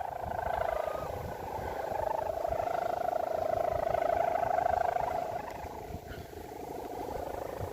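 Strong wind buffeting the microphone in a low, uneven rumble. A steady, slightly wavering hum runs over it and fades about six seconds in.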